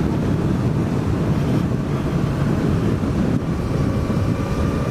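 Wind rushing over the microphone while a Suzuki GSX-S1000 motorcycle is ridden at road speed, its inline-four engine running underneath. A faint steady whine joins about three and a half seconds in.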